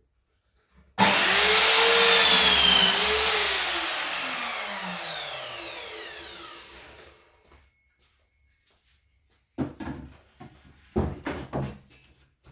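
A handheld electric power tool starts abruptly, runs at full speed for about two seconds, then is switched off and winds down, its whine falling in pitch as it fades over several seconds. Near the end come a few short knocks.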